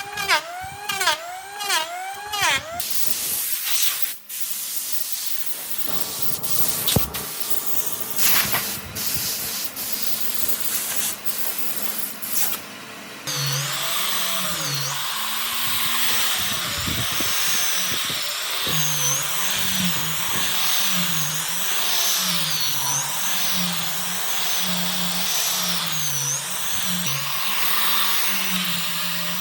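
An electric power tool working on wood. It starts and stops with clatter in the first half, then from about halfway runs steadily, its pitch dipping and recovering about once a second as it is pushed into the work.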